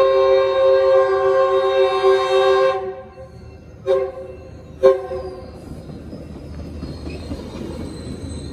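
Metrolink commuter train's multi-note horn: one long blast that cuts off about three seconds in, then two short blasts about a second apart. The train's rumble then rises as it rolls into the station, with a faint high squeal from its running gear near the end.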